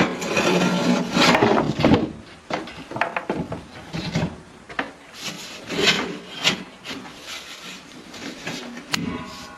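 Wood being scraped, a string of irregular rasping strokes, longer and louder in the first two seconds, then shorter ones.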